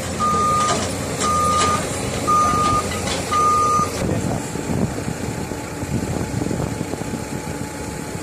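Backup alarm on a heavy machine beeping four times, about once a second, over the machine's engine running. The beeping stops about four seconds in and the engine carries on.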